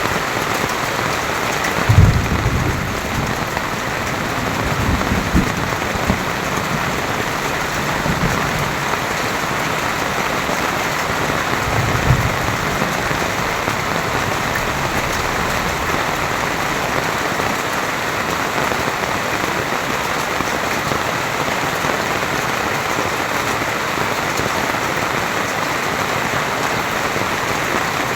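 Heavy rain pouring down steadily as a dense, even hiss of drops. A few low thumps come through in the first half, the loudest about two seconds in.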